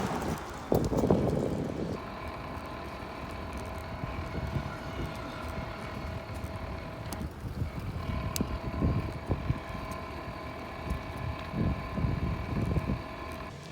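Small engine of a motorized bicycle running at a steady speed with an even whining drone, which drops out briefly about halfway through. Wind buffets the microphone in gusts throughout.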